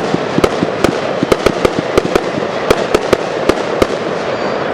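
Fireworks display: a rapid, irregular string of sharp bangs and pops, several a second, over a continuous dense din from the show.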